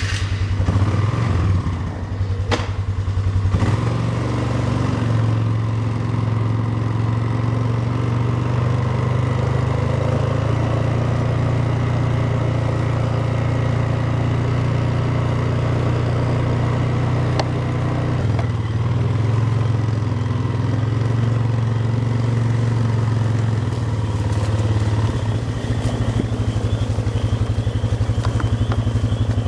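Four-wheeler (ATV) engine running steadily at a low, even pitch, cutting off at the very end.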